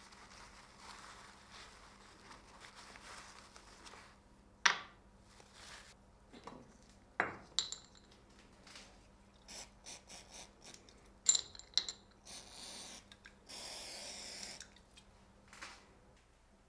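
Steel parts and tools handled on a workbench: scattered knocks and sharp metallic clinks, two of them ringing briefly, then a scraping rub lasting a couple of seconds, over a faint steady hum.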